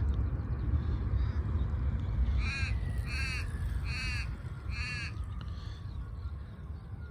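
A crow cawing four times in a row, evenly spaced, starting about two and a half seconds in, over a steady low rumble.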